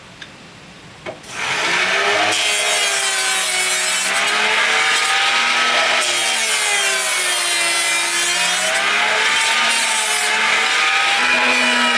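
After a couple of faint clicks, a power tool starts about a second in and runs without a break while cutting wood, its motor pitch wavering up and down as the load changes.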